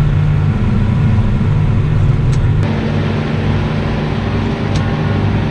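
Tractor engine running at a steady speed, a low drone with no change in revs.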